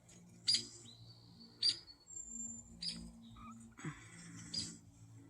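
Small birds at a feeder giving short, sharp, high-pitched calls, four of them about a second apart, with a thin held whistle after the first.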